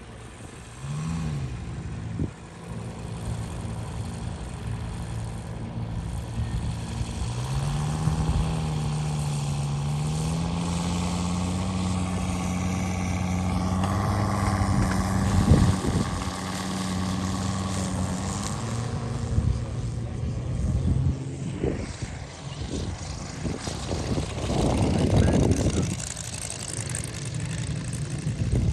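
Large-scale RC TBF Avenger's Moki 300 five-cylinder radial engine flying past. Its pitch rises about a third of the way in, holds steady, then fades. Louder rushing noise follows near the end.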